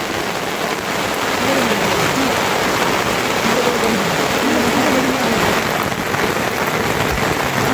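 Steady rain falling, an even dense hiss of drops on surfaces.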